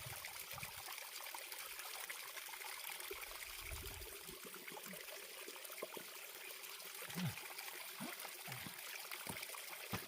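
Small mountain stream trickling steadily, with a brief low knock about seven seconds in.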